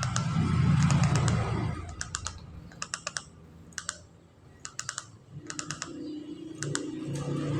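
Perkutut (zebra dove) giving its rapid staccato 'ngretek' clicking notes, in short bursts of a few ticks about once a second. A low rumble is louder in the first second or so.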